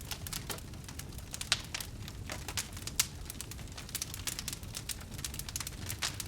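Wood fire crackling: irregular sharp pops and snaps, the loudest about a second and a half in and again about three seconds in, over a low steady rumble of the flames.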